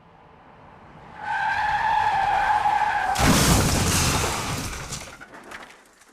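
Car skid-and-crash sound effect: an approaching car, then a tyre screech held for about two seconds and sliding slightly down in pitch. About three seconds in comes a loud crash, dying away in scattered clattering near the end.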